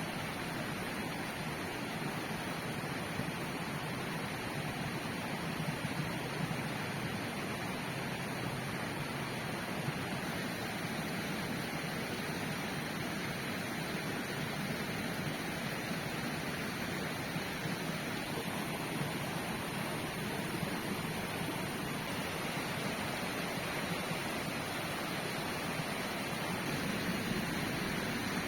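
Flowing river: a steady rush of water.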